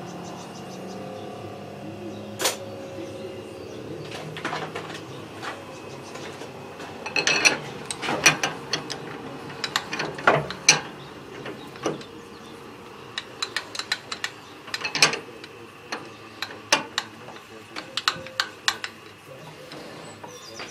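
Machine-shop sounds: a steady machine hum with irregular sharp metallic clicks and clinks, as of tools and parts being handled. The clicks get busier about a third of the way in.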